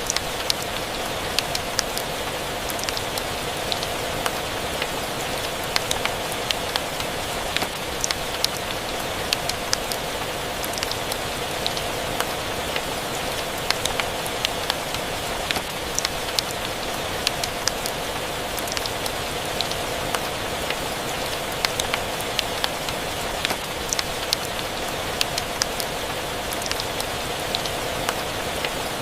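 Steady rain hiss mixed with a crackling fireplace, its sharp pops and snaps coming irregularly several times a second.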